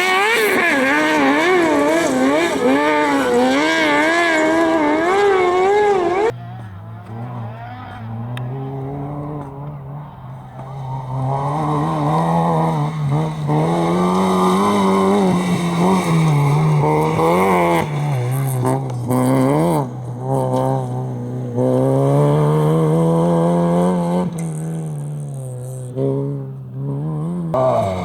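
Competition vehicles' engines revving hard on a dirt slalom course. For the first six seconds a high-pitched engine note wavers rapidly up and down. Then, after an abrupt change, a lower-pitched engine rises and falls repeatedly as the throttle is worked through the course, with brief lifts.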